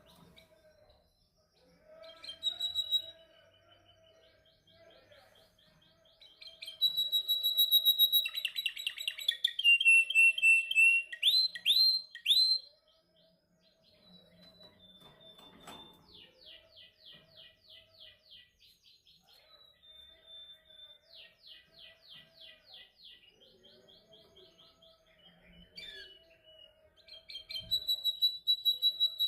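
Domestic canary singing in rapid trilled phrases. A loud phrase comes about a quarter of the way in, softer rolling trills follow through the middle, and the song rises loud again near the end.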